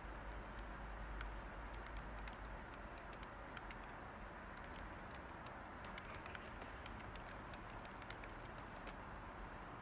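Light typing on a computer keyboard, irregular soft key clicks, over a steady hiss of white noise.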